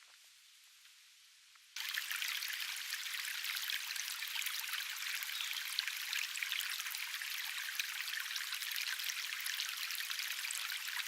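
Steady, dense crackling hiss of water, starting abruptly about two seconds in after near silence.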